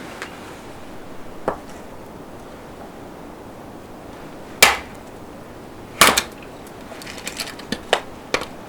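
Sharp knocks of wood being struck: three separate hits, the two in the middle loudest, then a quick run of smaller knocks near the end.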